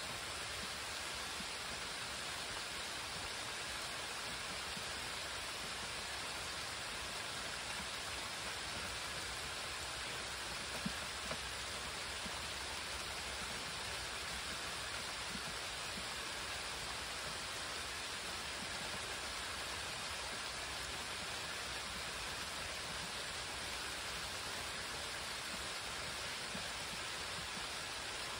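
Rain shower falling steadily on leaves and pavement, an even hiss that holds at one level, with two brief louder taps about eleven seconds in.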